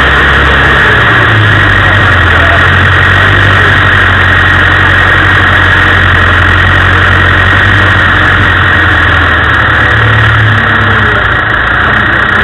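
Land Rover engine running steadily at low revs while the vehicle drives slowly off-road, loud and close.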